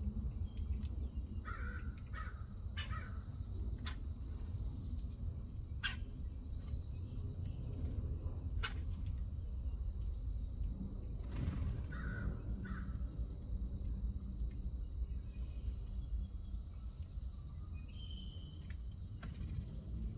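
Harsh cawing calls of a corvid, a short group of three about two seconds in and a pair again about twelve seconds in, over a steady high hiss, a low outdoor rumble and a few sharp clicks.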